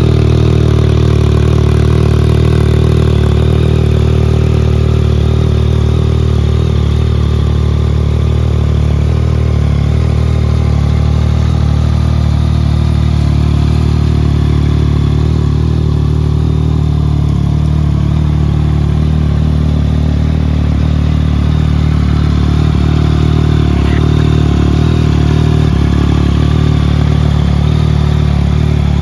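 Yamaha MT-09's 847 cc three-cylinder engine idling steadily.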